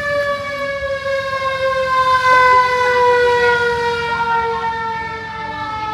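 A mechanical siren, already wound up, sounds one loud continuous tone that slowly falls in pitch as it winds down.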